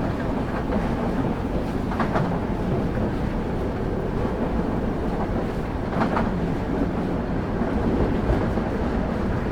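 Train wheels rolling along the track with a steady low rumble, and a clack of the wheels over a rail joint twice, about four seconds apart.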